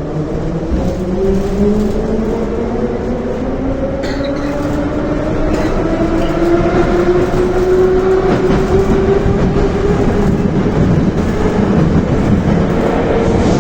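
Moscow Metro 'Nomernoy' 81-717/714 train accelerating away from a station, heard from inside the car. The traction motor and gear whine rises slowly in pitch and levels off near the end, over steady wheel and rail rumble.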